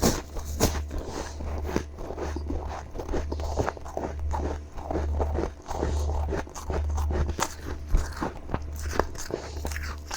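Close-miked biting and chewing of powdery freezer frost: dense, irregular crisp crunches one after another, over a low steady hum.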